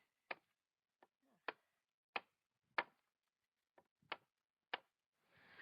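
About eight sharp taps or clicks, spaced irregularly from about a third of a second to a second apart, with near silence between them.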